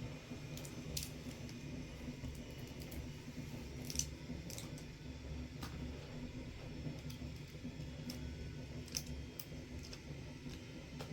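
Scattered light clicks and taps, a dozen or so at uneven intervals with the sharpest about four seconds in, over a steady low hum.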